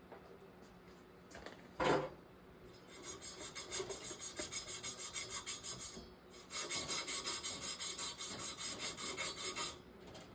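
Fast back-and-forth rasping strokes, about four a second, in two runs of a few seconds each with a short break between: an abrasive being rubbed by hand on pipe being prepared for plumbing. A short knock comes about two seconds in.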